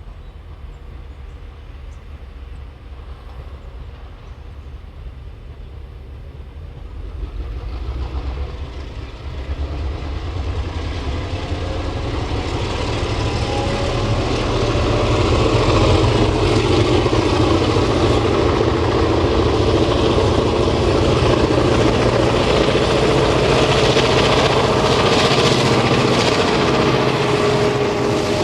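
Diesel locomotive engine running as a train approaches, growing louder through the first half and then loud and steady.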